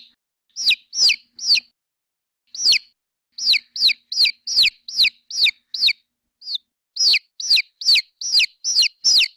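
A recording of a baby chick peeping: a string of short, high calls, each falling in pitch, about two or three a second, with a couple of brief pauses.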